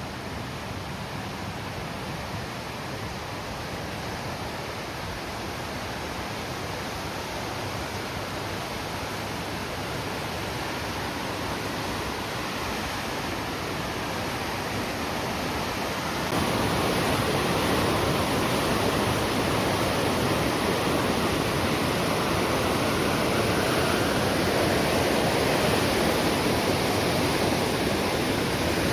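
Fast-flowing river swollen with spring runoff, rushing steadily; the river is in flood. The rush gets louder a little past halfway.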